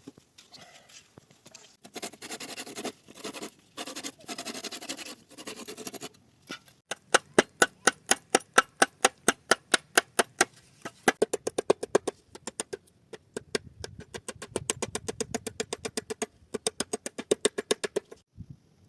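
A few rough scraping strokes, then a long run of sharp, regular knocks at about four a second with a slight ringing note, like hand tools working wood or stone.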